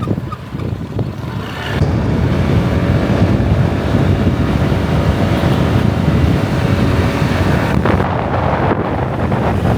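Wind buffeting the microphone on a moving motor scooter, with the engine running underneath; the rush gets louder about two seconds in, as the bike picks up speed.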